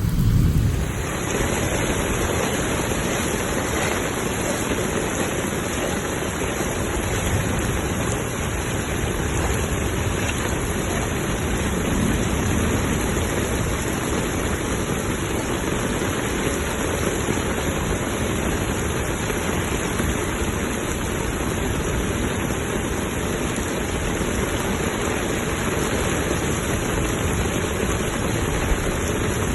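Heavy tropical-storm rain falling steadily, a dense unbroken hiss.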